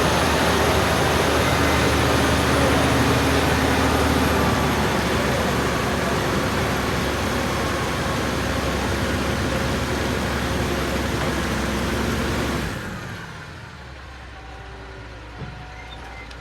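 Heavy truck engine running hard, labouring up a slippery incline; the loud, steady engine noise drops away sharply about thirteen seconds in.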